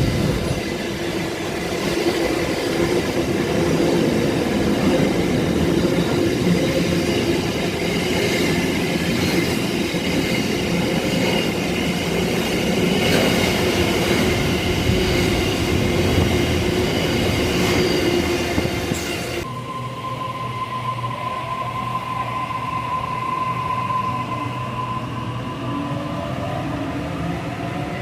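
Freight train rolling past, its wagons rattling along the rails with steady squealing tones from the wheels. About two-thirds of the way through the sound changes suddenly to a quieter train sound with a steady whine and rising tones.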